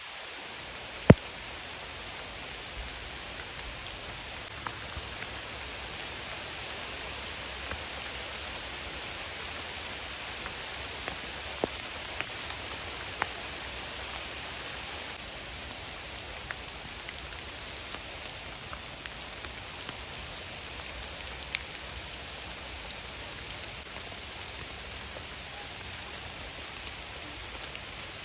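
Steady hiss of falling rain, with scattered sharp ticks of drops and one louder click about a second in.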